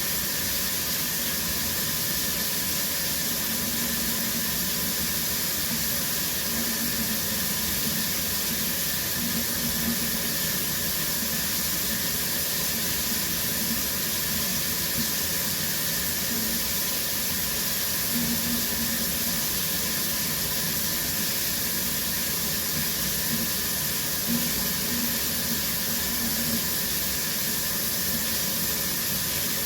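Shower running steadily: an even hiss of falling water spray.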